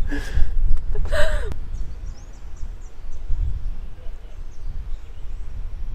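Low rumble of wind buffeting the microphone, with two short breathy gasps about a second apart at the start, and faint high bird chirps after.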